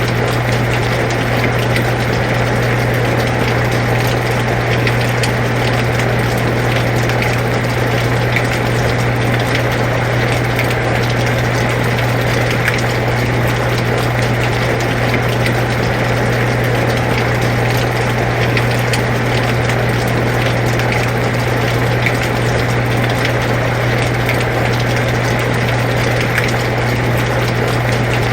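Air conditioner running with a steady low hum, over a constant hiss of rain with faint scattered ticks of drops.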